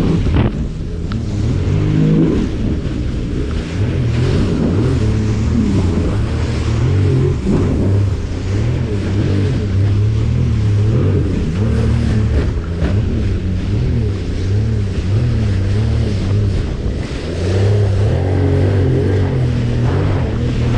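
Jet ski engine running under way, its pitch repeatedly rising and falling as the throttle changes, over a steady rush of water and wind.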